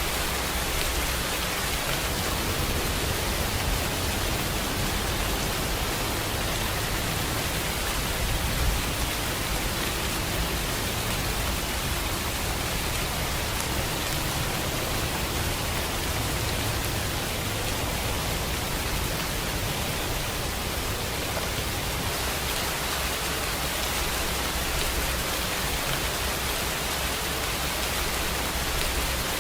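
Steady rainfall, a dense, even hiss that does not change.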